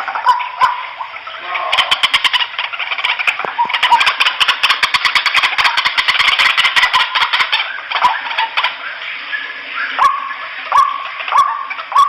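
White-breasted waterhens calling noisily: a dense run of rapid, harsh repeated notes through the middle, then separate short upswept notes repeated about once every half second near the end.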